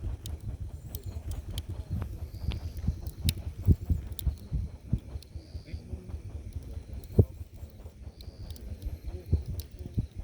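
Campfire burning low on glowing embers, crackling with irregular small pops and ticks over a low rumble.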